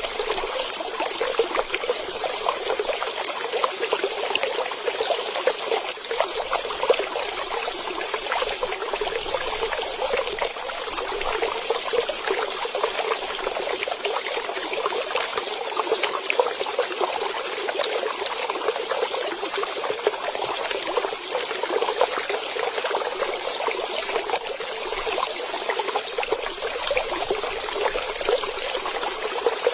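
Running water trickling and splashing in a steady stream, with no clear birdsong standing out.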